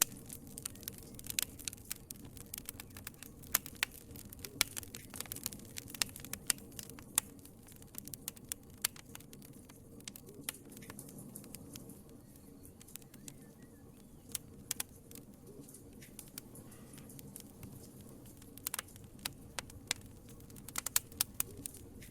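Wood fire crackling in a fireplace: irregular sharp pops and snaps, some in quick clusters, over a low steady hiss of burning.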